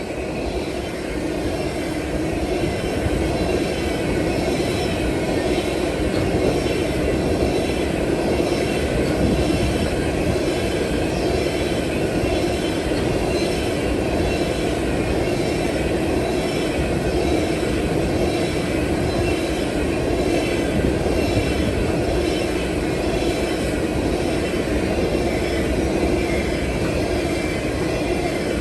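Freight train of tank cars rolling past, wheels rumbling and clicking over rail joints in a steady rhythm, growing louder over the first few seconds.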